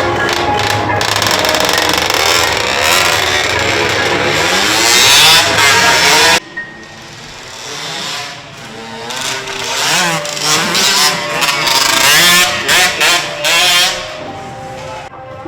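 Motorcycle engines revving up and down. The sound is loud, then cuts off suddenly about six seconds in, giving way to quieter revving in short rising and falling bursts.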